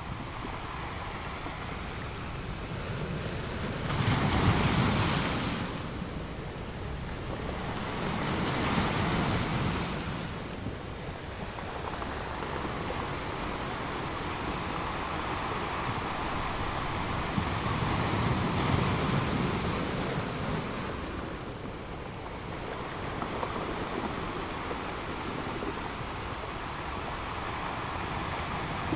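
Rushing noise of sea waves and wind, swelling and fading several times, with the strongest surge about four seconds in.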